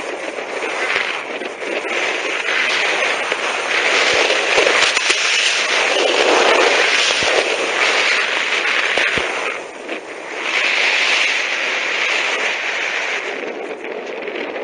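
Skis scraping and hissing over hard, wind-packed snow on a downhill run. The loud, crackly noise swells and fades every couple of seconds with the turns and drops away briefly about ten seconds in.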